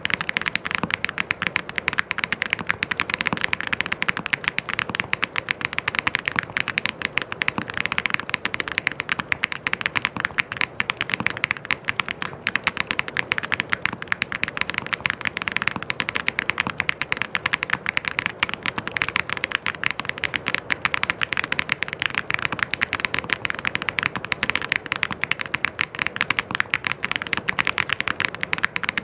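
Fast, continuous typing on a mechanical keyboard: a dense stream of key clicks without a pause.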